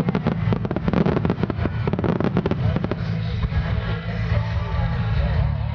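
Aerial firework shells bursting and crackling in rapid succession over music, the bursts thinning out about three seconds in while the music continues.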